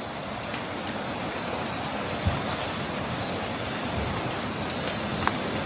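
Wind gusting through the trees, a steady rush that builds slightly, with a thin steady high whine over it and a couple of faint knocks.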